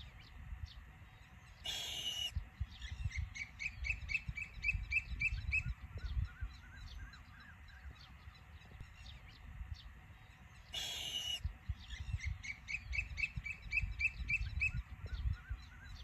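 Bird calls: a harsh squawk followed by a quick run of about nine short, high call notes, and the same sequence again about nine seconds later, over a low rumble.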